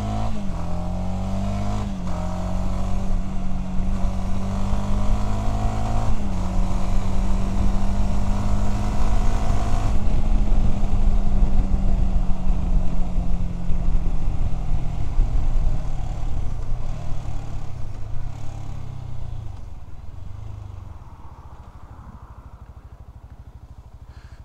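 Voge 300DS motorcycle's single-cylinder engine under way: revs climb, drop with upshifts about two and six seconds in, then hold steady. Past the middle the revs fall off as the bike slows, and for the last few seconds the engine idles quietly.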